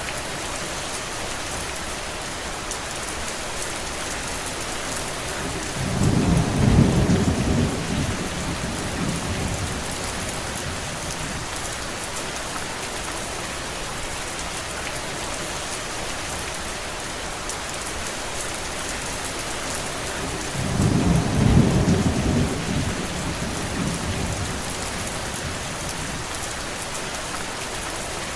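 Steady rain falling as an even hiss. Twice, about six seconds in and again about twenty-one seconds in, a low roll of thunder rumbles for about three seconds over it.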